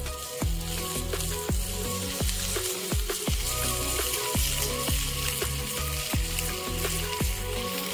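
Food frying with a steady sizzling hiss, over background music with a steady beat.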